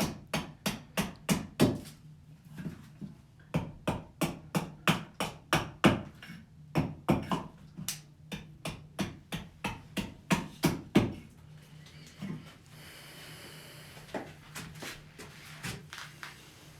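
Wood being turned on a pole lathe: the cutting tool bites in a short, sharp stroke with each downstroke of the treadle, about two to three strokes a second. The strokes stop about 11 seconds in, and a few more follow near the end.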